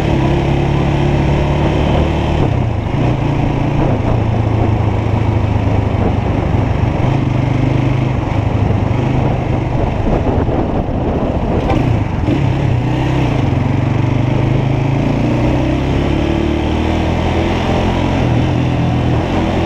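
Motorcycle engine running under way, its pitch shifting a few times as it speeds up and slows, over a steady rush of riding noise.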